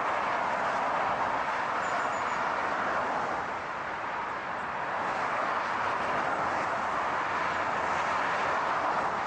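Steady rushing noise of a car on the move, an even hum of road and engine noise, dipping slightly in loudness a few seconds in.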